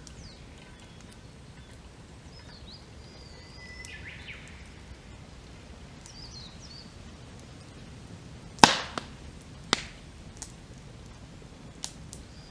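Wood fire crackling: one loud sharp pop about two-thirds of the way in, a smaller pop a second later, then a few faint ticks near the end. Short bird chirps come earlier, over a low steady background.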